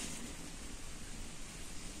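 Quiet, steady background hiss with no distinct sound in it.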